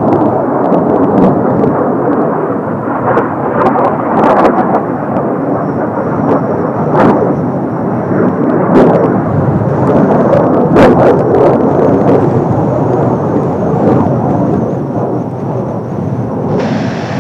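Kawasaki T-4 jet trainers flying overhead: a loud, continuous jet roar that swells and fades, with short sharp crackles scattered through it and gusts of wind buffeting the microphone.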